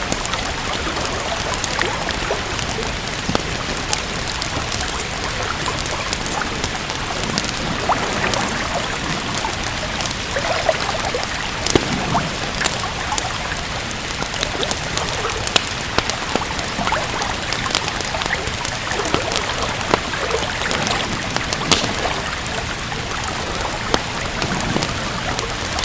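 Steady rain with a wood fire crackling: a constant hiss of rain with frequent, irregular sharp pops and snaps.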